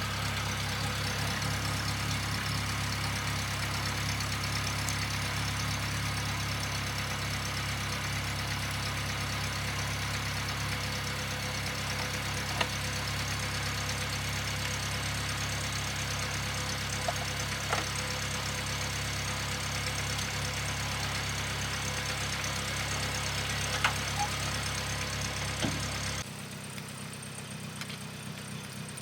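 An engine running steadily at an even speed, with a few faint clicks over it. About 26 seconds in it drops abruptly to a quieter, lower hum.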